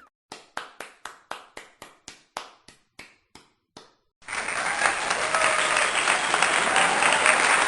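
Single hand claps, about four a second, for some four seconds; then a crowd suddenly breaks into loud, sustained applause.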